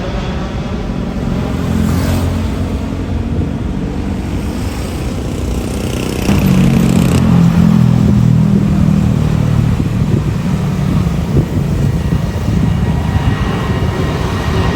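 Departing jet airliners' engines running at takeoff power, a steady low rumble. About six seconds in the sound cuts to a louder departure, the ANA Boeing 787-8.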